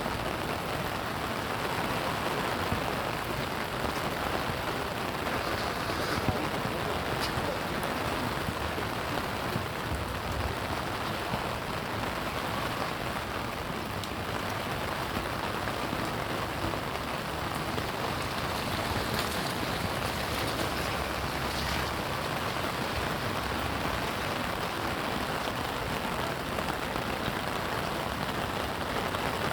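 Steady rain falling and pattering on surfaces, with scattered louder drops ticking close by.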